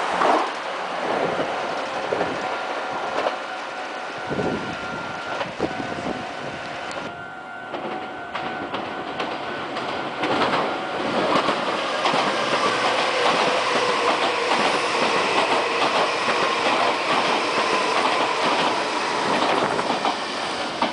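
Meitetsu Panorama Super limited express train running on the rails, its wheels clattering over rail joints. A steady high whine runs through much of it, plainest in the second half.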